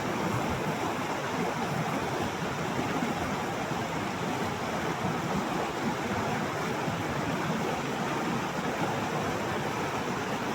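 A mountain river rushing, a steady even noise of flowing water.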